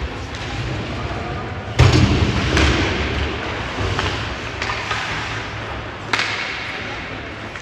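Sharp thuds and knocks from ice hockey play over a steady background din. The loudest comes about two seconds in, with another just after it and one more about six seconds in, each ringing briefly.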